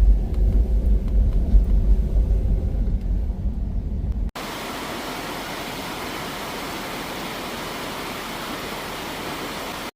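Steady low rumble of a moving car. About four seconds in it cuts off abruptly to a steady, even hiss.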